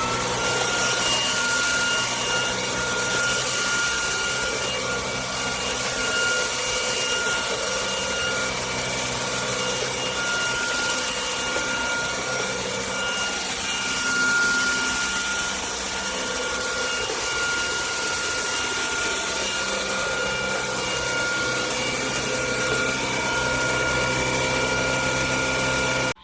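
Cordless stick vacuum running: its motor whines up and settles into a steady high-pitched whine over a rushing hiss as it cleans the floor. It cuts off abruptly at the end.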